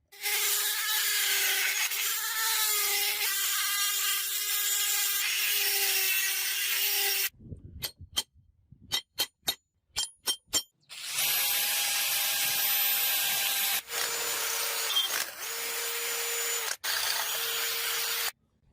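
An electric power tool runs under load on the iron, a steady motor tone over loud grinding noise, for about seven seconds. It stops, and about eight sharp separate knocks follow over a few seconds. The tool then runs again for another seven seconds, dipping briefly twice before it cuts off.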